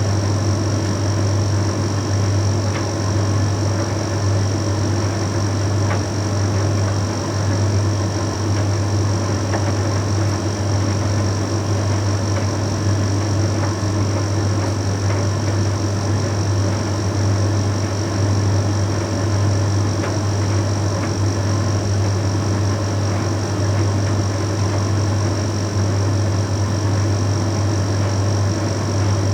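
Bosch Series 6 heat pump tumble dryer running steadily mid-way through its Shirts drying cycle: a constant low hum with an even whooshing of the drum and air, and a faint steady high whine.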